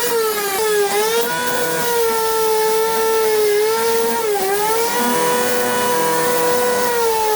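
High-speed power tool motor running with a steady whine. Its pitch sags briefly twice as it bites into the work, and it begins to wind down near the end.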